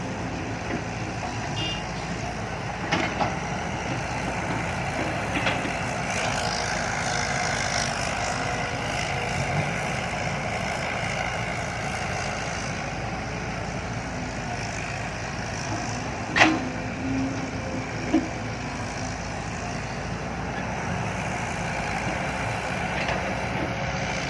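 Heavy diesel machinery, dump trucks and excavators, running steadily at a dig site, with a couple of sharp metallic knocks, the loudest about two-thirds of the way through.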